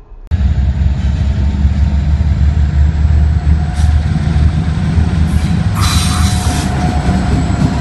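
Heavy freight train with diesel locomotives passing close, a loud steady low rumble that cuts in suddenly just after the start. Faint wheel squeal rides over it, and there is a short hiss about six seconds in.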